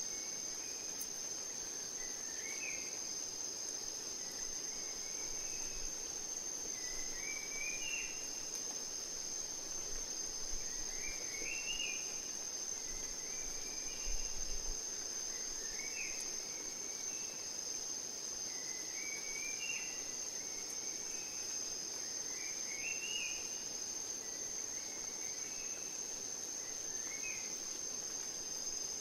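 Steady high-pitched drone of insects in a rainforest ambience, with a bird repeating a short rising phrase every three to four seconds.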